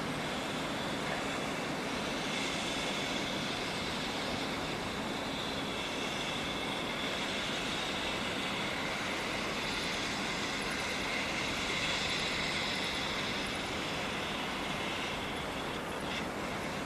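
Freight train hauled by an EF65 electric locomotive: steady running noise with a high whine that swells in about two seconds in and eases off near the end.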